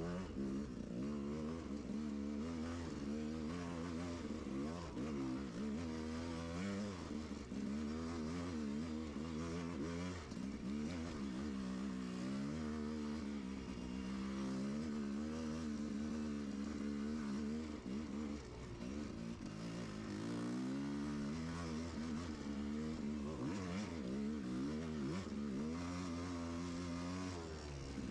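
Enduro motorcycle engine running continuously, its revs rising and falling again and again as the throttle is worked.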